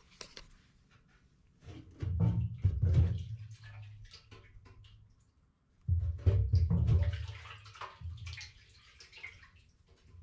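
Daihatsu Hijet mini truck engine struggling to run, twice coming up suddenly and then dying away over a couple of seconds; the trouble is traced to rust from the fuel tank.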